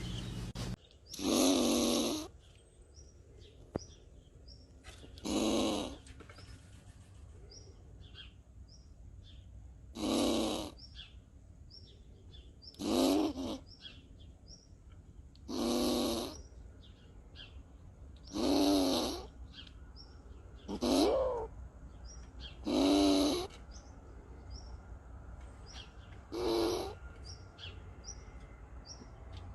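An animal snoring, one long pitched snore every two to three seconds, with faint bird chirps in between.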